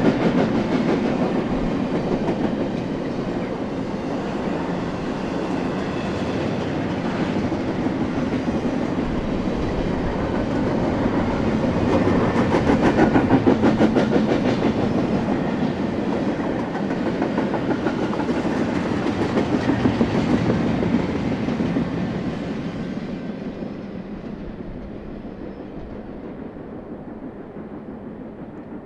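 Double-stack intermodal freight cars rolling past, a steady noise of steel wheels on rail with rapid clicking over the joints. From about two-thirds of the way through, the sound fades away as the end of the train passes and recedes.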